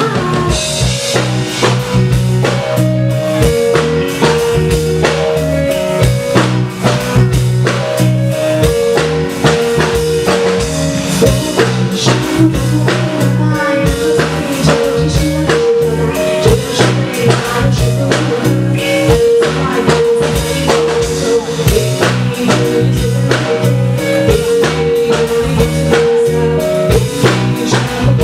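Live rock band playing with a full drum kit, with steady drum hits and rimshots over a bass line and a repeating melodic figure.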